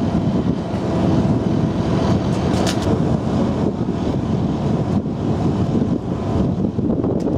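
Type 94 amphibious mine-laying vehicle's engine running with a steady drone, heard from aboard.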